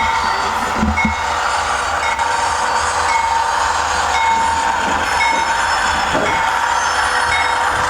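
Diesel engine sound of an HO-scale GE Dash 9-44CW model from its ESU LokSound 5 decoder, played through the model's small speaker: a steady running drone with a short high note repeating about once a second.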